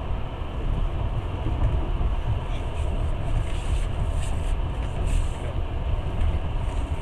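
Long-distance passenger train running, heard from inside the carriage: a steady low rumble of wheels on the rails and the car in motion.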